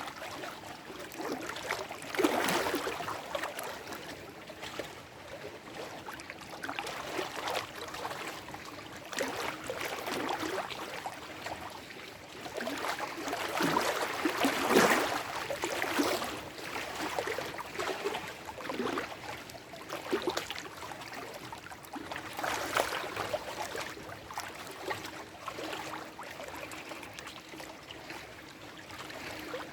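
Small lake waves lapping and sloshing among shore rocks, with irregular gurgles and splashes that swell and fade every few seconds. The largest surges come about two seconds in and around the middle.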